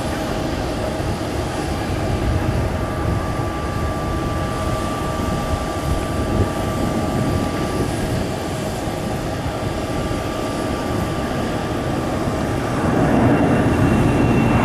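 Kawasaki C-2 transport's twin turbofan engines running during a low, slow flypast: a steady jet roar with a thin whine that fades out a little past halfway. The roar grows louder near the end as the aircraft comes closer.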